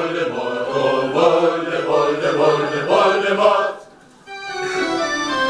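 A choir singing, breaking off about four seconds in. After a brief pause, steady held notes from an organ-like keyboard begin.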